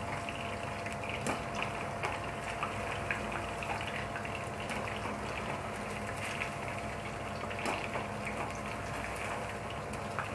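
Marinated, cornflour-coated chicken pieces deep-frying in hot oil: a steady sizzle with scattered small pops and crackles.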